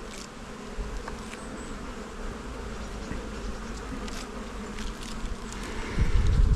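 Honey bees from an opened hive buzzing steadily with a continuous hum, with a few faint ticks. About six seconds in, a louder low rumble comes in and becomes the loudest sound.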